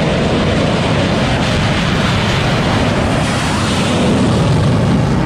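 Steady, loud roar of jet aircraft engine noise mixed with wind on a carrier flight deck.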